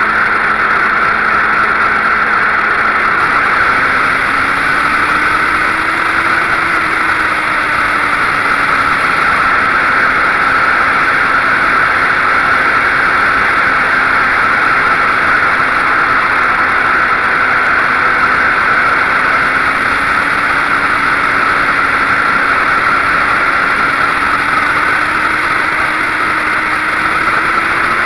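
2006 Suzuki GSX-R1000's inline-four engine running steadily, its pitch drifting slowly up and down, under a loud constant rush of noise.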